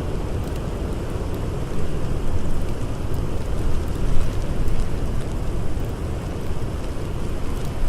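Blizzard wind blowing hard with a deep rumble, swelling in gusts about two and four seconds in, with faint crackles from a campfire.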